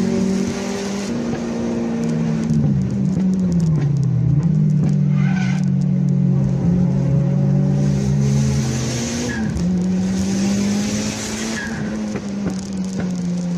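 Car engines running hard at high revs, the note dropping and climbing again a few seconds in, with short tyre squeals around the middle and near the end.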